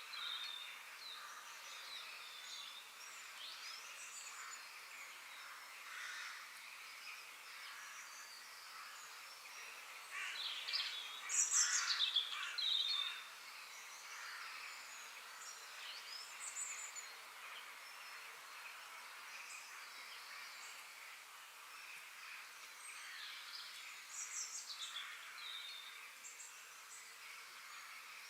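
Forest ambience: several birds chirping and singing over a steady high-pitched background hiss, with a louder run of calls from about ten to thirteen seconds in.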